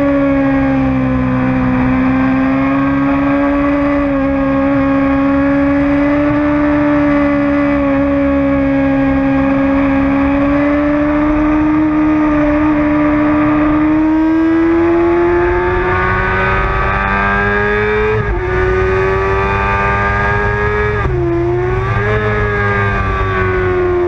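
Sport motorcycle engine heard from a camera mounted on the bike, held at high revs around a race track, with wind rush beneath it. Its pitch stays fairly level, climbs slowly in the second half, and dips sharply twice near the end before coming back up.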